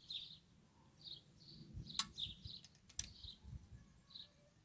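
Small birds chirping faintly, short high chirps repeating irregularly, with two sharp clicks about two and three seconds in.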